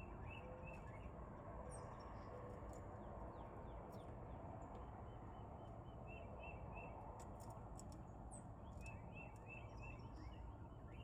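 Faint outdoor ambience with a steady background hiss. Small birds chirp in short runs of quick high notes near the start, around six seconds in and again around nine seconds.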